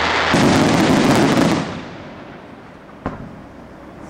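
Aerial fireworks: a dense run of rapid pops and crackles lasting about a second, then fading, with one sharp bang about three seconds in.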